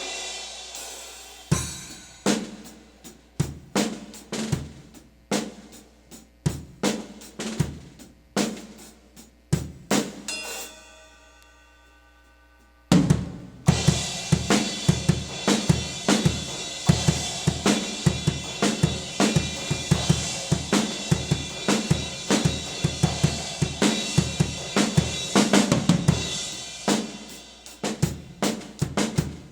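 Drum kit with an 18-inch Wuhan Lion china cymbal and Armada Shamman B10 cymbals. It starts with single drum-and-cymbal strikes about a second apart, then a cymbal rings out alone. About thirteen seconds in, a busy beat begins with a steady, bright cymbal wash, and it thins back to separate hits near the end.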